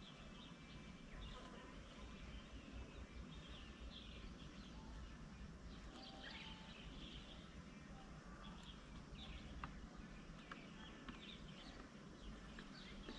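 Faint, scattered chirps and calls of several birds, over a steady low background noise.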